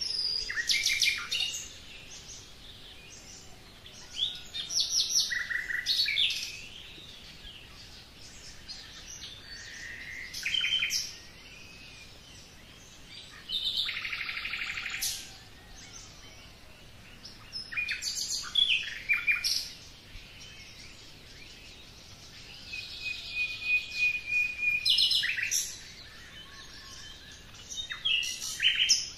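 Songbirds singing in short phrases of chirps and trills that come every four or five seconds, with faint background noise between them.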